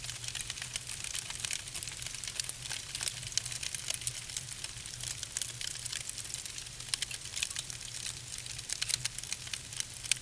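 Logs burning in a fireplace, crackling: a dense, irregular run of small sharp snaps and pops over a steady low rumble.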